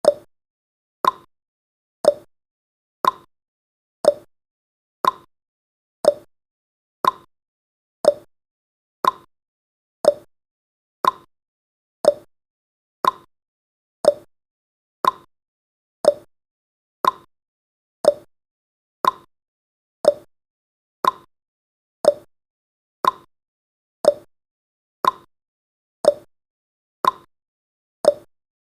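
Clock-tick sound effect of a countdown timer: one short, sharp tick every second, alternating between a lower and a higher tick like a tick-tock.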